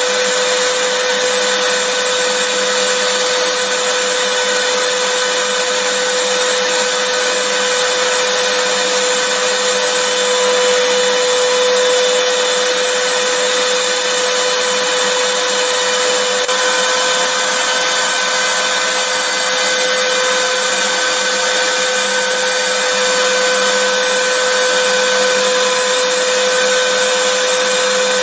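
Vacuum cleaner running steadily, a constant rush of air with a steady motor whine, unchanging throughout.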